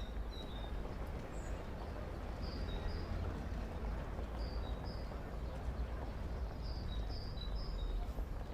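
Added street ambience: a steady low rumble and murmur, with a small bird chirping in short clusters of two or three high notes every couple of seconds.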